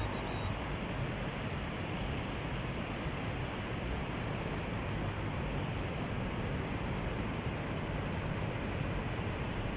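Sea surf: a steady, even rush of breaking waves.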